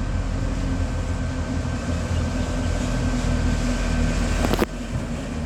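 Diesel freight locomotive engine running steadily, a low rumble with a faint steady whine above it, with a brief sharp break about four and a half seconds in.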